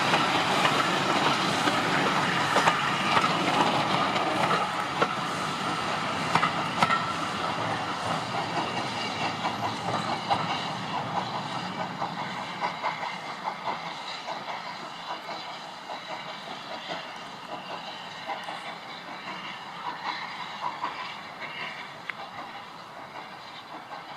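Steam-hauled heritage train rolling past, its carriage wheels clacking over the rail joints, fading steadily as the train draws away.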